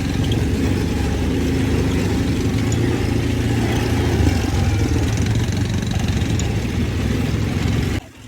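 Vehicle engine running steadily while driving over a rocky, rough road, with a steady noisy hiss over the low hum. The sound drops off suddenly near the end.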